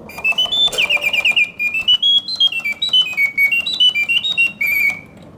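Reuge singing bird cage automaton singing: a bellows-driven whistle piping quick trills and warbles that step up and down in pitch, with the clockwork mechanism ticking underneath. The birds sing in full voice, hitting the proper oscillating notes of a well-serviced movement.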